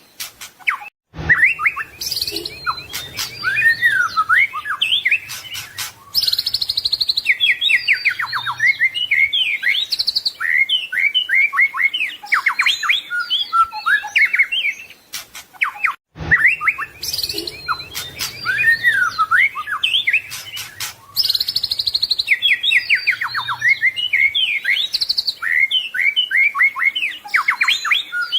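White-rumped shama (murai batu) singing a fast, varied run of whistled phrases, rapid trills and clicking notes. The same passage of about 15 seconds plays twice, each time after a brief break, as in a looped training recording.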